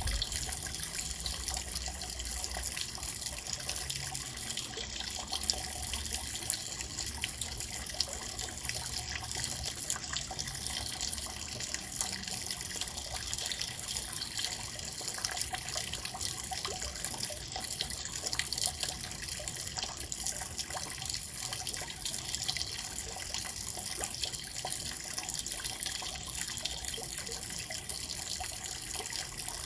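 Steady rain falling: an even hiss with many fine drop ticks and no let-up.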